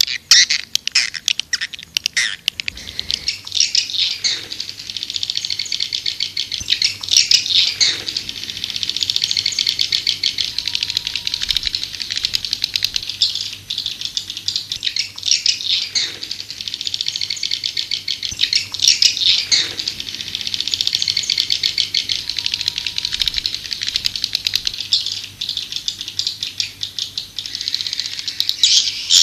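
Edible-nest swiftlets twittering: a dense, continuous stream of rapid rattling chirps, with louder bursts that recur in the same sequence about every twelve seconds. This is a recorded swiftlet lure call of the kind played to draw swiftlets into a nesting house.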